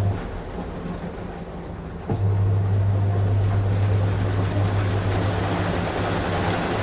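Washing machine running a strong wash cycle: its motor hum cuts out just after the start and comes back on with a click about two seconds in, then runs steadily over constant churning noise.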